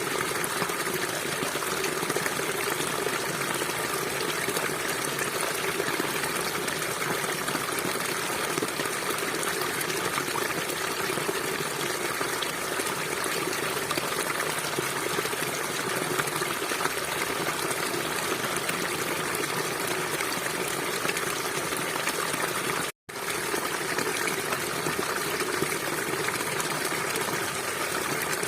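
River water flowing, a steady continuous rush, broken by a split-second dropout to silence about four-fifths of the way through.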